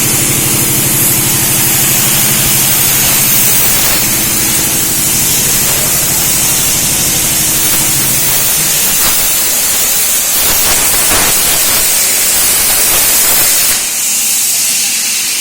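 Tabletop CNC plasma cutter running a cut: a loud steady hiss of the plasma arc and its air jet, with a low hum under it for roughly the first half that fades out. The hiss eases slightly near the end.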